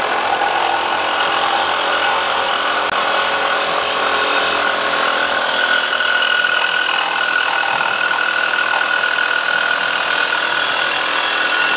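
Power saw held in its own clamp running steadily as it cuts through the workpiece, with a steady whine over the cutting noise; the clamp feeds the cut so the saw needs no pushing down.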